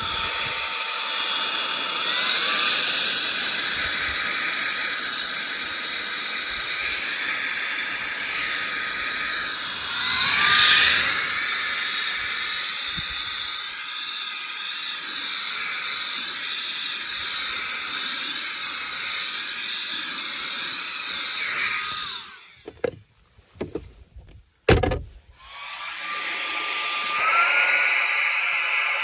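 Cordless handheld vacuum cleaner motor running with a steady high whine and rush of air. It is switched off about three-quarters of the way through, a few clicks and knocks follow, and it is switched back on, its whine rising as it spins up.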